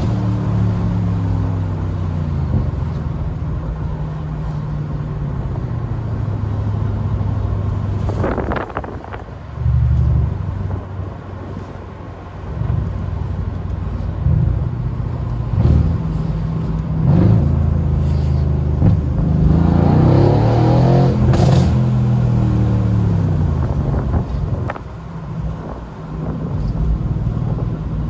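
Mercedes-AMG C63's twin-turbo V8 engine and exhaust while driving, the pitch rising and falling through accelerations and gear changes. It eases off briefly about a third of the way through, then pulls harder with rising revs about two-thirds through.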